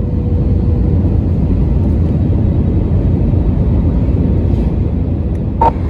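Steady low rumble of an Airbus A321's engines and rushing airflow heard from inside the passenger cabin during the descent.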